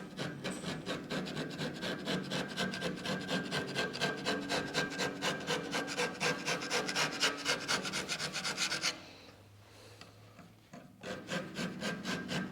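Small hand file rasping back and forth along the rough sheet-metal edge of a mini lathe's chip pan, deburring it, at about three to four strokes a second. The strokes stop about nine seconds in and start again about two seconds later.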